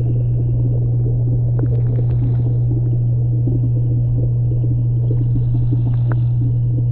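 A loud, steady low hum, unchanging throughout, with faint scattered crackling above it.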